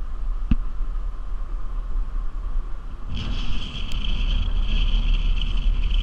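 Hurricane wind buffeting the microphone with a heavy, constant low rumble, with a short knock about half a second in. About three seconds in, a louder hiss with a high, whistle-like tone joins it.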